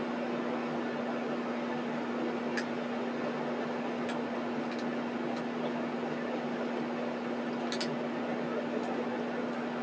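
A steady machine-like hum with one constant low tone over a hiss, and a few faint clicks.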